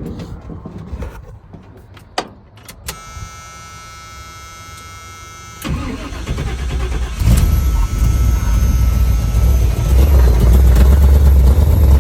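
A truck's 454 V8 with throttle-body injection being started: a few clicks and a steady electric whine, then about halfway through the engine cranks and catches, running with a low rumble that grows louder and settles steady near the end.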